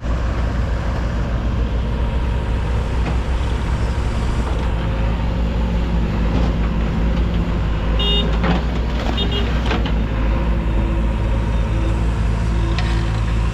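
Heavy diesel engine running steadily under load. Two brief high-pitched squeaks come about eight and nine seconds in.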